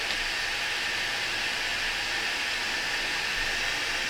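JISULIFE Table Fan Pro3 running with its speed turned up high: a steady rush of air.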